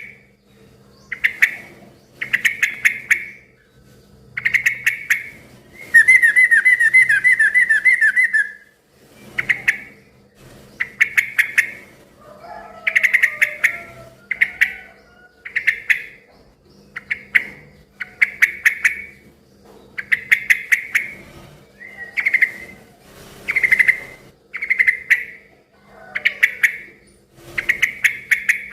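Yellow-vented bulbul (cucak trucuk) calling noisily in short, chattering bursts about once a second. About six seconds in it gives one longer, rapid trill lasting a couple of seconds. A faint steady hum runs underneath.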